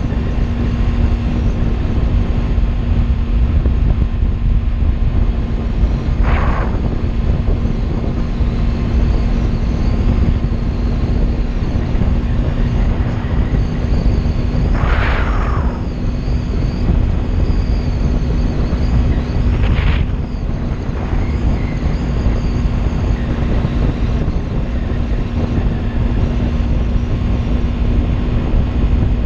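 Kawasaki Ninja 300 parallel-twin engine running at a steady cruising pitch while riding, under heavy wind rumble on the microphone. Three brief whooshes come through, about 6, 15 and 20 seconds in.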